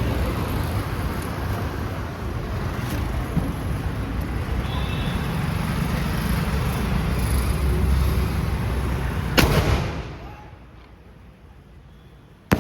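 Steady rumbling background noise, then a sharp bang from a 3.25-inch aerial firework shell about nine seconds in that dies away, and a second sharp bang right at the end.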